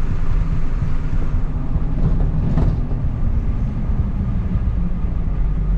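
The 7.3-litre IDI V8 diesel of a 1993 Ford F350 runs steadily under way, heard from inside the cab as a continuous low rumble mixed with road and wind noise.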